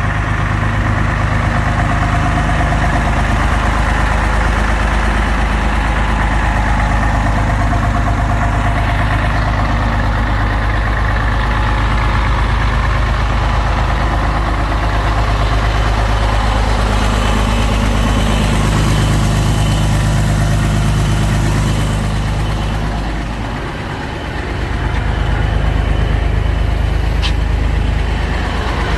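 Scania 113 M 310 tipper truck's 11-litre inline-six diesel engine idling steadily, with a brief dip in level about three-quarters of the way through and a single click near the end.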